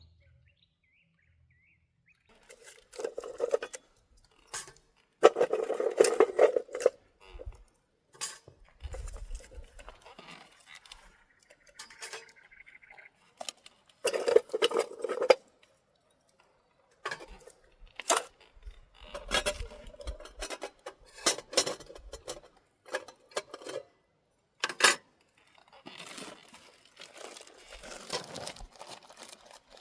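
Irregular clatter and knocks of camp cookware and utensils being handled, with some rustling in between.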